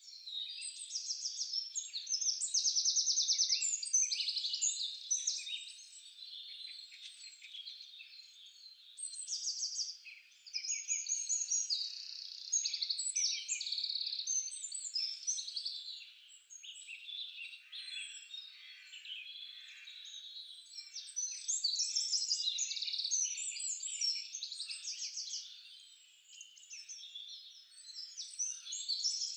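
Many small birds chirping and trilling together in a dense, unbroken chorus of high calls, with no lower sounds under it.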